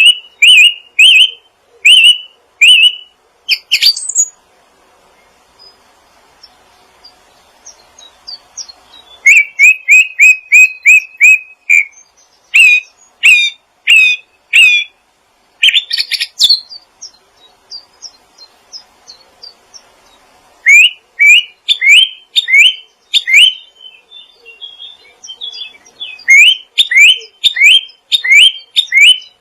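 A small songbird calling in quick runs of sharp, repeated chirps, several a second, each run lasting a few seconds, with pauses of about four to five seconds between runs.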